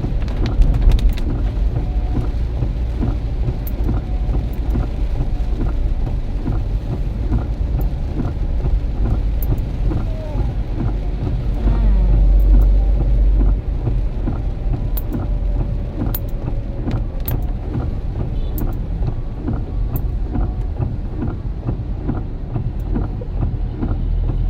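Heavy rain in strong wind: a loud, deep rumble of wind with a steady hiss of rain and scattered small ticks of drops, swelling for a moment about twelve seconds in.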